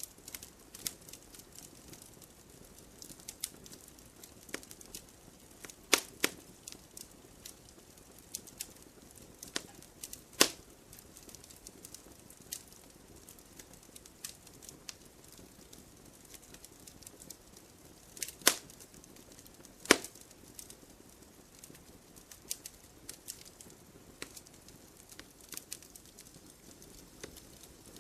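Wood fire in a fireplace crackling: a steady scatter of small crackles over a faint hiss, with a few much louder sharp pops, about six, ten, eighteen and twenty seconds in.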